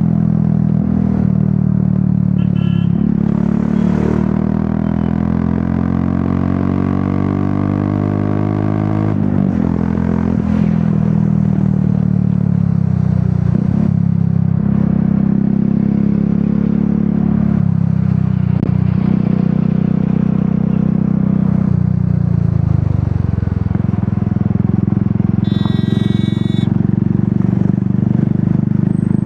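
Royal Enfield Classic 350's single-cylinder engine running through an aftermarket Dolphin exhaust while riding. The engine note climbs and then drops back several times as it shifts gear.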